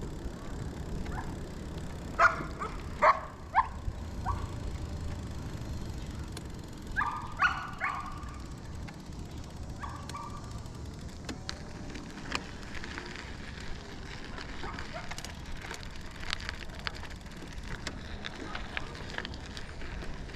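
Steady low wind and road rumble from riding an e-bike, with short, sharp animal calls cutting through: four in quick succession about two seconds in and three more about seven seconds in.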